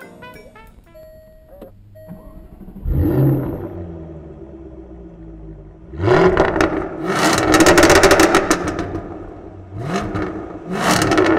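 Arden AJ 23 Jaguar F-Type R's supercharged 5.0-litre V8 catches with a sudden flare about three seconds in, then settles to idle. It is revved hard for a few seconds and then blipped twice near the end, with sharp crackles from the exhaust as it revs.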